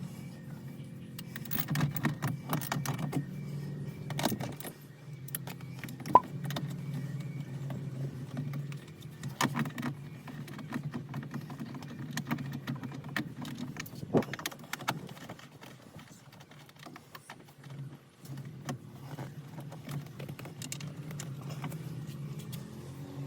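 Hands handling plastic parts, giving scattered clicks and rattles with one sharp click about six seconds in, over a steady low hum that fades for a few seconds past the middle.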